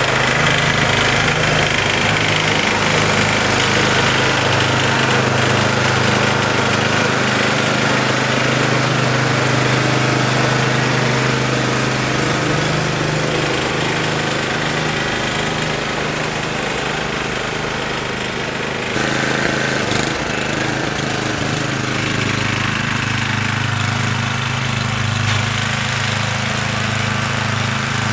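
Snow blower engine running steadily while clearing snow, with a slight change in its sound about two-thirds of the way through.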